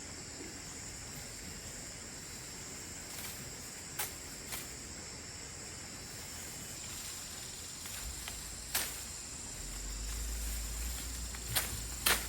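Steady high-pitched drone of insects, with a few short sharp clicks or snaps scattered through it.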